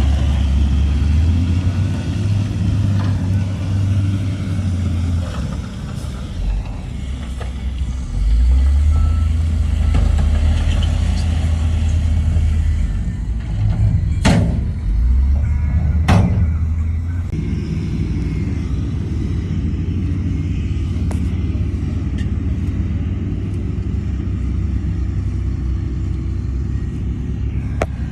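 Heavy diesel engine of earthmoving machinery running under load, its low rumble swelling and easing several times, with two sharp metallic clanks about two seconds apart midway.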